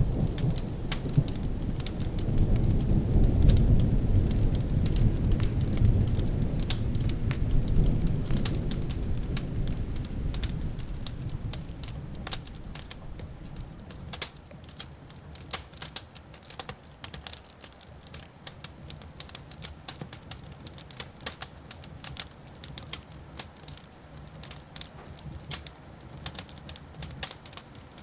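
Wood fire crackling with many sharp pops, under a long rolling thunder rumble that swells over the first few seconds and dies away about halfway through, leaving the crackling alone.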